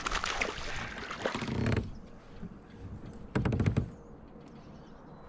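Rustling and knocking on a kayak, with a short burst of rapid clicks about three and a half seconds in.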